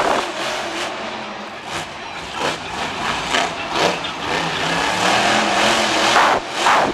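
Monster truck engine running loud and revving, the pitch wavering up and down, with a rough, harsh, distorted sound from the camera's overloaded microphone.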